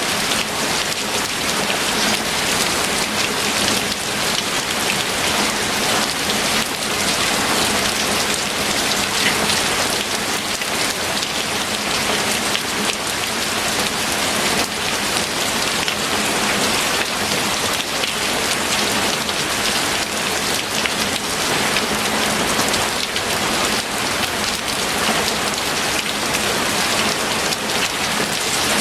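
Steady heavy rainfall, a dense, even hiss of raindrops striking a surface.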